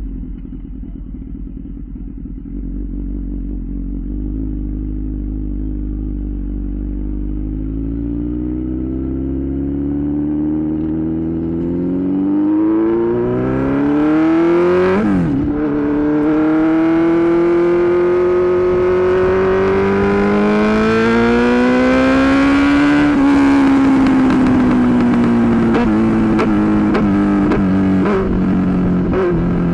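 Suzuki GSX-R1000 sportbike's inline-four engine accelerating, its pitch climbing, breaking sharply at a gear change about halfway, then climbing again. Near the end the revs fall and the exhaust pops and crackles on the overrun.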